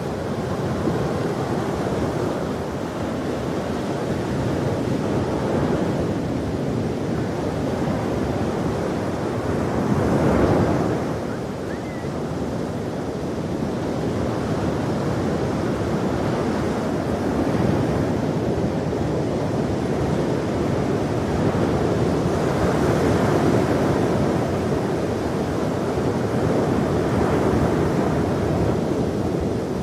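Ocean surf: waves breaking and washing in a continuous rush, with one wave swelling louder about ten seconds in.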